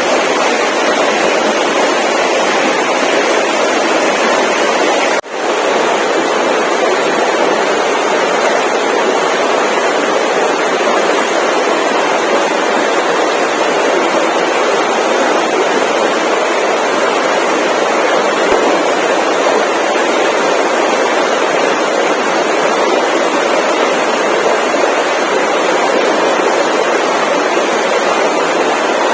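Steady rushing noise with no distinct events, broken by a momentary dropout about five seconds in.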